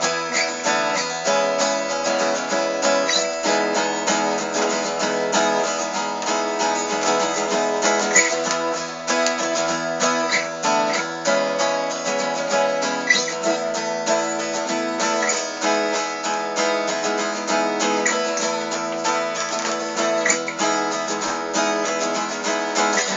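Acoustic guitar strummed steadily in an instrumental break of a folk song, with no singing.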